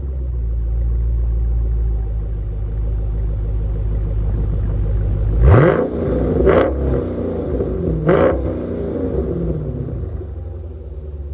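Dodge Challenger Scat Pack's 392 HEMI V8 idling, then revved three times in quick blips about halfway through, each rev rising sharply and falling back to idle.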